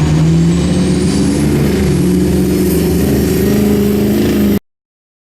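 Diesel truck engines running hard in a drag race, with a high whine rising over the first couple of seconds. The sound cuts off abruptly near the end.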